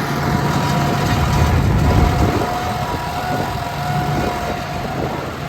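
Ford 4000 tractor engine running steadily while pulling a loaded trolley, with a steady high whine over the deep engine note.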